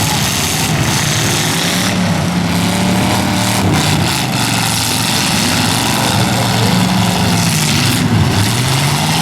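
Several stock pickup truck engines revving up and down in a demolition derby, with a few sharp bangs of the trucks colliding, about two seconds in, around four seconds and near eight seconds.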